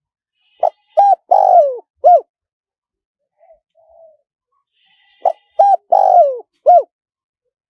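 Spotted dove cooing, in a high, small voice: two phrases of four coos each, a short note, another short one, a longer note falling in pitch, then a short closing coo, the second phrase about four and a half seconds after the first. Faint, softer coos come between the phrases.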